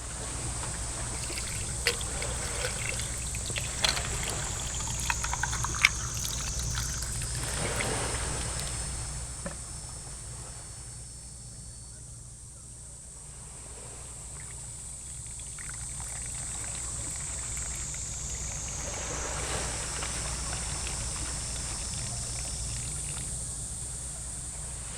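Water trickling and pouring, rising and falling in two broad swells, over a steady high-pitched insect drone, with a few sharp clicks in the first six seconds.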